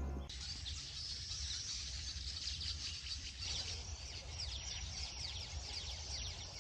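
Rural outdoor ambience of many small birds chirping: a dense, continuous run of short, high, downward-sliding chirps over a low steady rumble.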